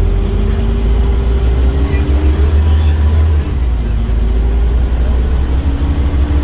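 Scania Omnicity bus's engine and drivetrain pulling under acceleration over a deep steady rumble, with a whine that rises in pitch. The whine drops back about two and a half seconds in, at a gear change, and climbs again near the end.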